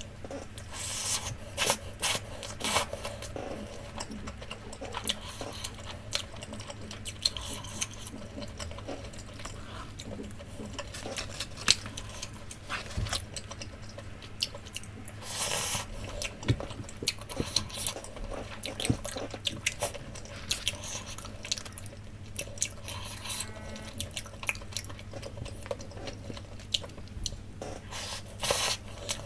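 Close-miked eating of takoyaki: soft chewing and squishing with many small clicks, and a few brief louder noisy bursts.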